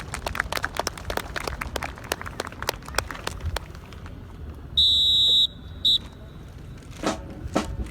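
Rapid clacking of a drill team's boots and rifles, then two high steady whistle blasts about five seconds in: one held briefly, then a short one. Sharp stamps start again near the end.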